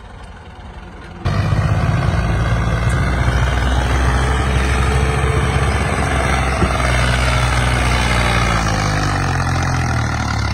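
Tractor diesel engine running hard, cutting in abruptly about a second in and staying loud and steady, its pitch sagging a little near the end.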